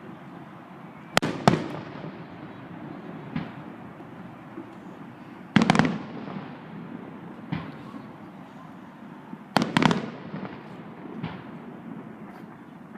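Fireworks going off: two sharp bangs a little over a second in, louder clusters of bursts around six and ten seconds in, and fainter pops in between.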